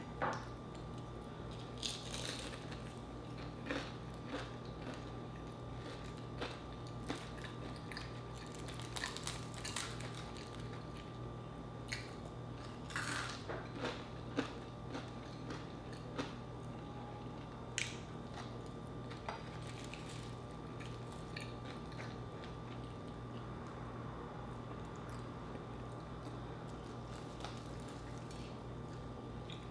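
Close-up chewing and biting of crispy fried chicken, with short crunches and crackles scattered through. A faint steady hum runs underneath.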